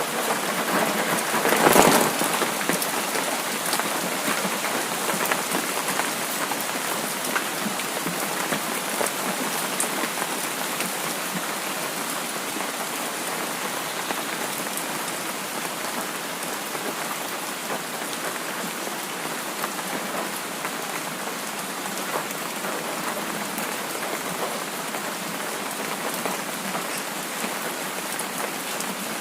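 Steady rain falling and pattering on surfaces, an even hiss of drops, with one brief louder surge about two seconds in.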